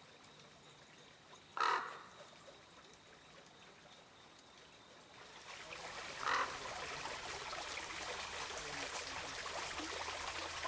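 Two short bird calls, one under two seconds in and another about six seconds in, with a steady hiss that comes in about five seconds in.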